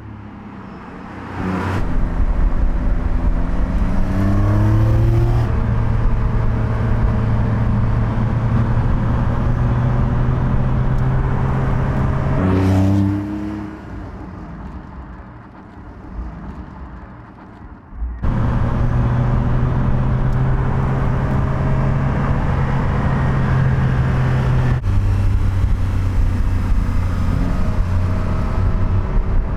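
2023 Porsche 911 Carrera T's twin-turbocharged flat-six engine and exhaust while driving, pulling up through the revs in rising sweeps with steady cruising stretches between. The sound drops to a quieter passage about halfway and jumps back abruptly, as if cut between driving passages.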